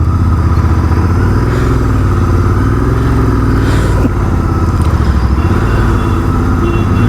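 Motorcycle engine running steadily at low revs, with a fast, even low pulse.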